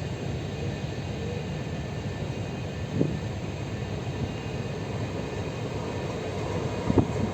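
Ship's engine running with a steady low rumble during docking, with two brief thumps, about three seconds in and near the end.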